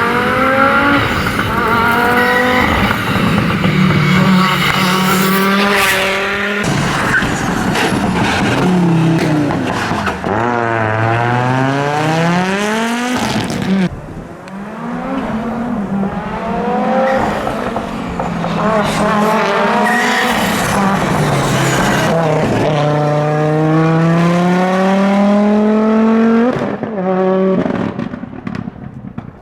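Audi Quattro S1 rally car's five-cylinder engine revving hard through the gears at full race pace, its pitch repeatedly climbing and then dropping at each shift. About ten seconds in, the revs fall away and climb back, and near the end the engine fades.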